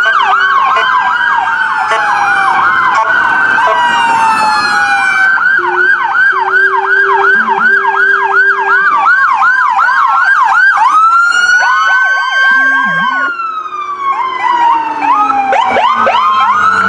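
Several police car electronic sirens sounding together as the cars pass, overlapping fast yelp tones with slower wailing rises and falls.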